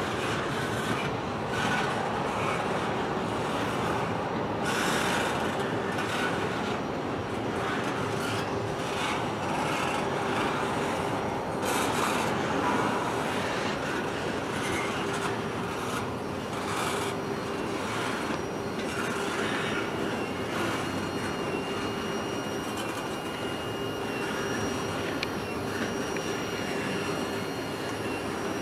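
Train cars rolling past on the rails, a steady wheel-and-rail rumble with repeated clicks as the wheels cross rail joints. A thin, high, steady squeal from the wheels comes in about halfway through.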